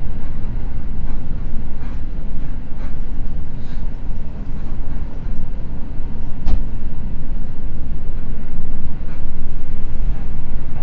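Running noise of a Seibu Red Arrow limited express train heard from inside the car: a steady low rumble of wheels on rail at speed, with faint clicks now and then.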